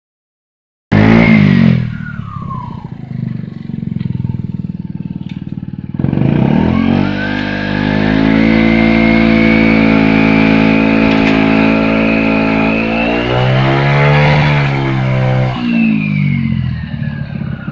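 Vehicle engine starting about a second in with a loud burst, then settling to idle with a falling whine. From about six seconds it is revved up and held at high revs for several seconds, then drops back to idle near the end with the whine falling away.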